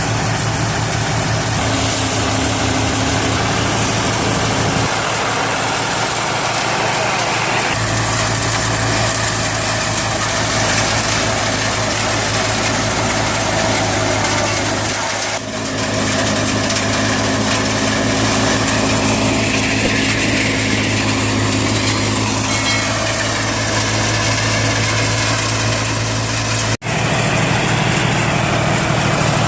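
John Deere 5045D tractor's three-cylinder diesel engine running steadily under PTO load while driving a multi-crop thresher. Its tone shifts abruptly a few times, with a brief dropout near the end.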